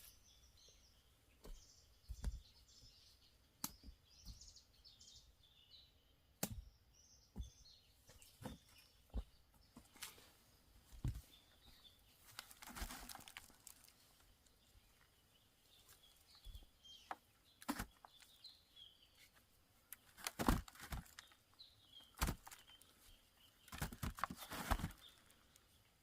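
Small birds chirping in the background, with irregular sharp knocks throughout and two short bursts of rustling scraping, about halfway and near the end.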